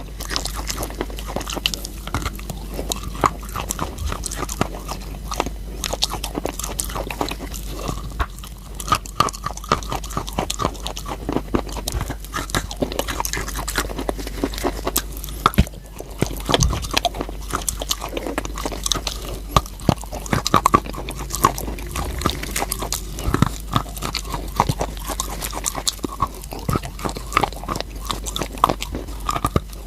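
Person biting and chewing crunchy chalk: a dense, continuous run of crisp crunches and crackles.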